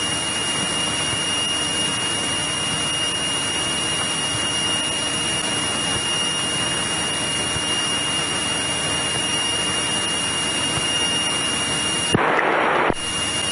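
Steady in-flight cockpit noise of a 1963 Cessna 172E cruising, with its Continental O-300 engine and airflow blending into an even rushing hiss under a thin steady high whine. Near the end a louder rush of noise lasts about a second.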